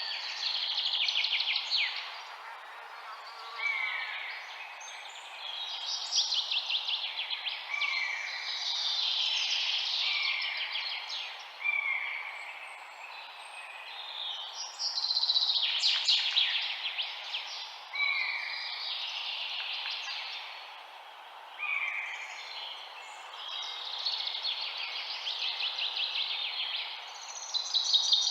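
Several birds chirping and trilling in quick overlapping phrases, with one short falling call repeating every couple of seconds, over a steady background hiss.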